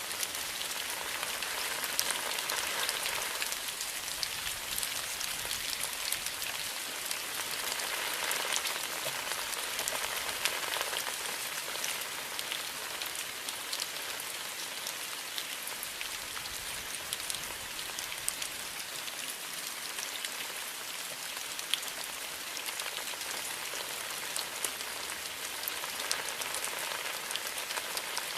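Steady rain falling on foliage, a dense even hiss with many small drop ticks throughout.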